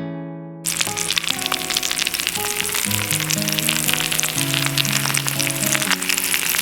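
Food sizzling and spitting in a hot frying pan, starting suddenly about half a second in, under background acoustic guitar music.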